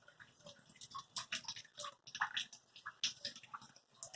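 Rainwater dripping off a roof edge in light rain: irregular drops splashing onto wet pavement, several a second.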